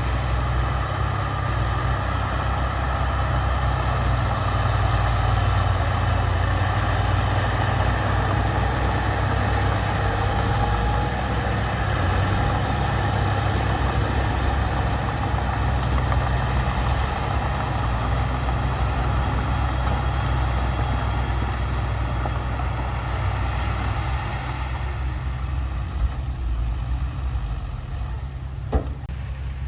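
Heavy diesel engine of earthmoving machinery running steadily with a deep rumble, and a single sharp click about a second before the end.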